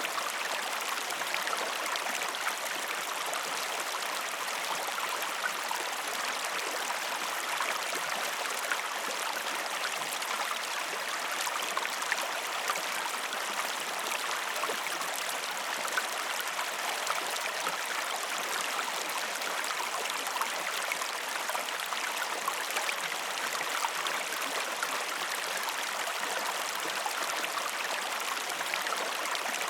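River water flowing steadily: an even rushing with small trickles and splashes in it.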